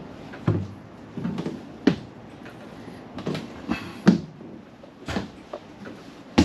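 Scattered knocks and footfalls, about half a dozen irregular thumps, as someone climbs the entry steps into a motorhome.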